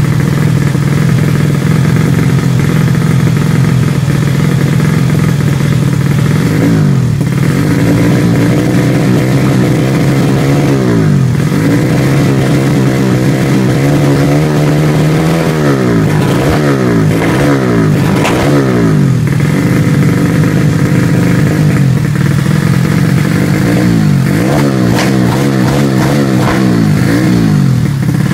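Modified Honda Supra underbone motorcycle's single-cylinder four-stroke engine, fitted with Honda Sonic 150 valves, running on its stand. It holds a steady high idle for the first few seconds, then takes repeated throttle blips, the revs rising and falling again and again in clusters through the middle and toward the end.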